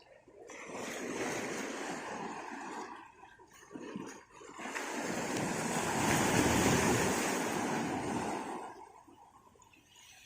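Sea waves washing onto the shore: a rushing noise that builds a few times, swells loudest around the middle and then dies down near the end.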